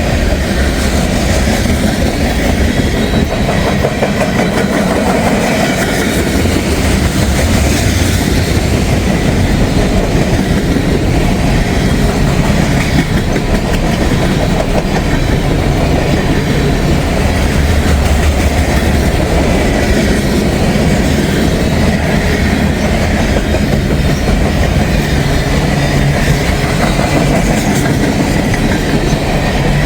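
Long CSX freight train's cars rolling past close by, a loud, steady sound of steel wheels on rail with no let-up.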